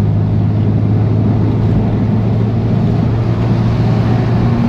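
BMW F80 M3 Competition's twin-turbo inline-six running through catless downpipes and an open valved exhaust, a steady low drone at an even speed with road noise underneath.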